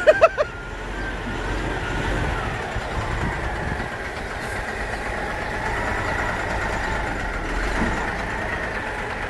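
Vacuum truck's engine running steadily.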